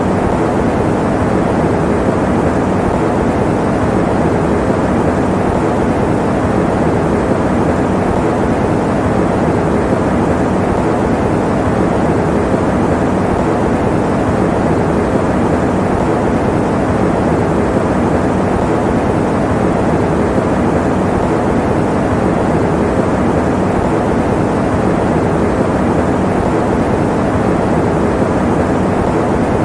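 Electric fan running steadily: an even, unbroken rush of air noise, full in the lows and mids and muffled at the top, with a faint low hum under it.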